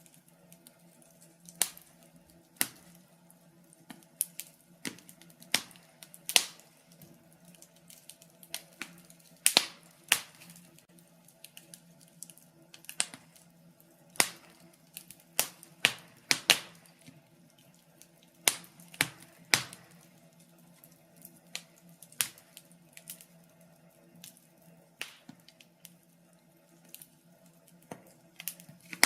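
Wood fire crackling in a fireplace: irregular sharp pops and snaps from the burning logs, some in quick clusters, over a faint steady low hum.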